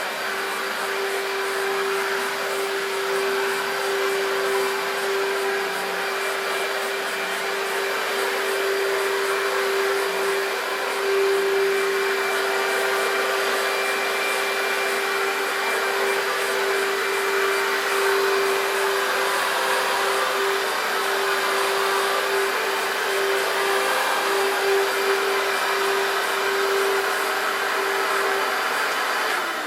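Electrolux Z1501 Contour upright vacuum cleaner's 1300W motor running steadily: a constant hum-whine over the rush of air.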